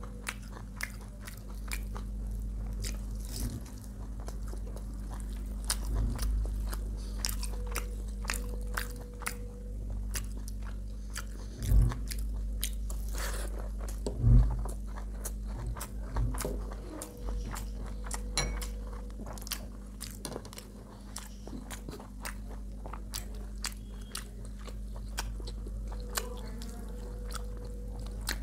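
A person chewing and eating close to the microphone: a steady stream of small wet mouth clicks and crunchy bites. Twice near the middle there is a louder low thump. A steady low hum runs underneath.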